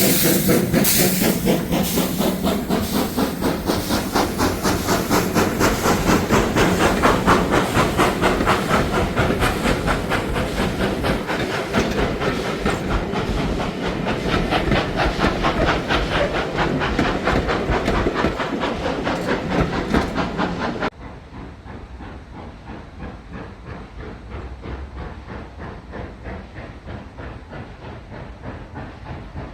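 Steam locomotive running, with a rapid, even beat of exhaust chuffs over steady steam hiss. About 21 seconds in the sound cuts abruptly to a quieter, duller train sound.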